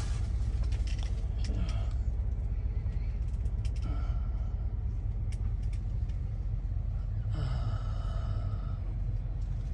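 Semi-truck diesel engine idling: a steady low rumble, with a faint higher tone for a second or so near the end.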